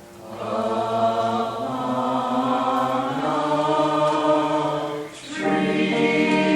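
Choir singing long, held chords, with a brief break about five seconds in before the next phrase comes in a little louder.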